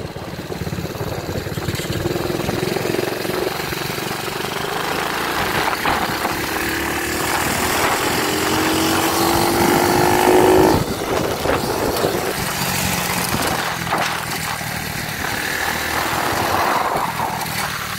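Dirt bike engine running under way, its pitch climbing steadily for several seconds and then dropping sharply about eleven seconds in, followed by steadier running.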